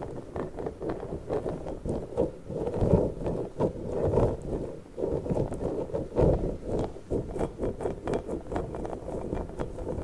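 Fingers squeezing and handling a soft squishy slug toy close to the microphone: a quick, irregular run of squishes and taps.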